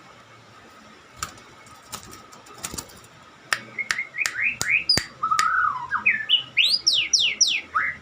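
White-rumped shama (murai batu) singing: a few sharp clicks, then about three and a half seconds in a loud run of quick, varied whistled notes begins, many of them rising sweeps, mixed with sharp clicks.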